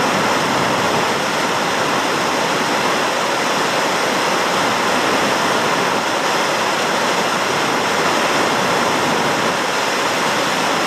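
Steady, unbroken rush of hurricane wind and heavy rain.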